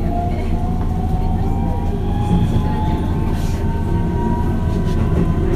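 Keihan Katano Line electric commuter train heard from inside the car, running with a steady low rumble. Over the rumble a traction-motor whine climbs slowly in pitch as the train picks up speed.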